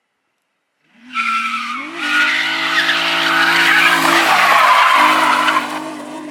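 A drift car's engine held at high revs while its tyres skid and squeal across the pavement, starting suddenly after about a second of silence; the revs climb about a second later, hold, dip briefly midway and return.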